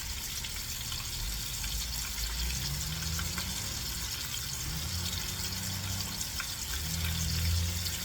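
Chicken nuggets frying in hot oil: a steady sizzle with faint scattered crackles, over a low hum.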